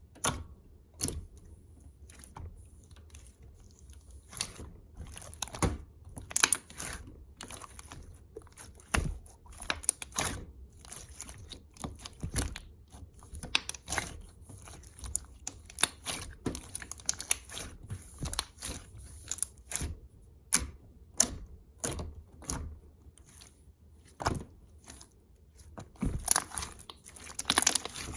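Irregular sharp clicks and taps, one every second or so and sometimes in quick clusters, with soft crunching in between.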